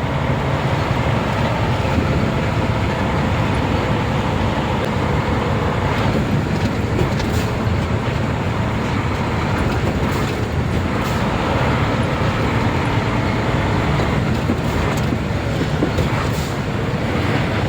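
Nissan Diesel UD440 crane truck's diesel engine running steadily on the move, heard from inside the cab with road noise and a few brief knocks or rattles.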